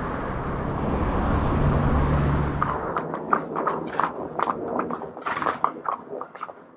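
A motor vehicle's engine hums close by, growing louder, then stops abruptly about three seconds in. After that a horse's hooves clip-clop on the road surface, several strikes a second.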